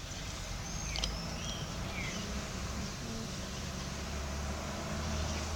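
A steady low mechanical hum, with a few short, faint bird chirps in the first two seconds.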